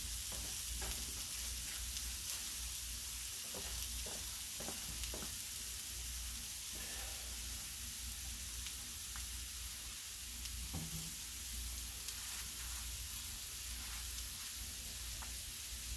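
Chopped shrimp, scallops, onion and mushroom sizzling steadily on the hot steel flat-top of a Blackstone griddle, its burner on high to cook the water out of the seafood.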